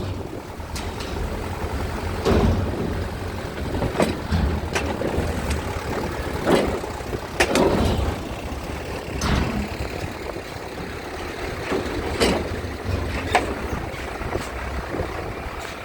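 A low, steady heavy-engine rumble with sharp knocks and clanks every second or two.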